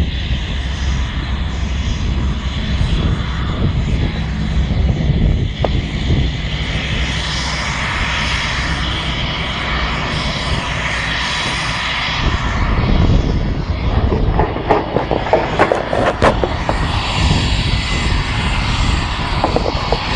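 Turbine aircraft engine running continuously, with a steady low hum under a rushing high noise that swells in the middle. Sharp knocks and crackles come through in the last third.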